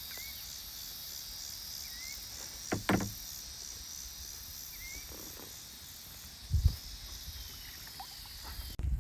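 Kayak paddling on slow water: a paddle knocks and splashes twice, about 3 s and 6.5 s in, over a steady high buzzing insect chorus, with a few short rising bird chirps. The sound breaks off abruptly near the end.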